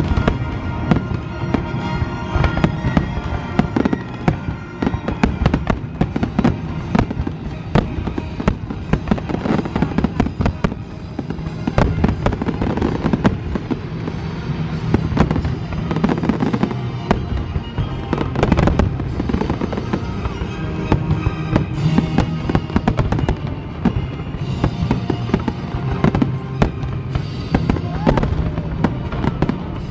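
Fireworks display: aerial shells bursting in many sharp bangs, often in quick succession, over music with held notes.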